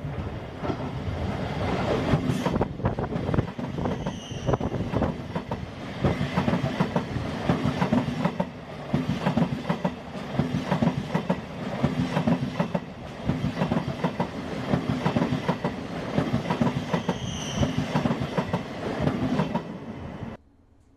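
Train running on track, its wheels clattering over rail joints in a repeating rhythm, with two brief high squeals. It cuts off suddenly near the end.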